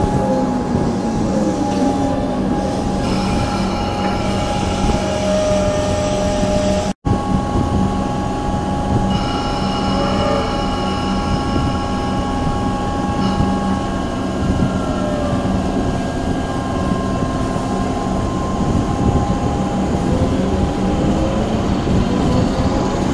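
Comeng electric suburban train moving slowly along a curve, its traction motors whining steadily over rumbling wheels, with high thin squeals from the wheels on the curved track. The sound cuts out for an instant about a third of the way through.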